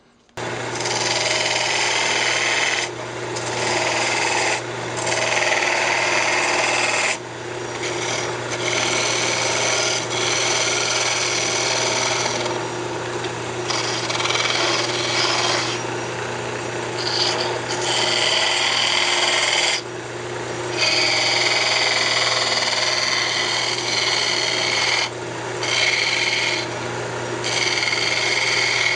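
Wood lathe running with a steady motor hum while a turning tool cuts into a spinning maple blank, truing it up; the rough cutting hiss breaks off briefly every few seconds as the tool is lifted and set back on the wood.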